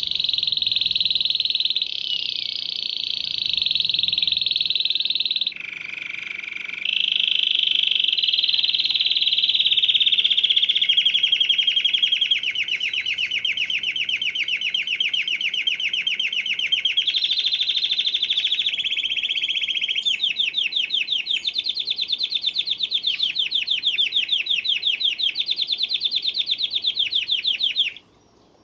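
Domestic canary singing a long, unbroken song of rapid trilled rolls, moving from one roll to the next every few seconds. It stops suddenly near the end.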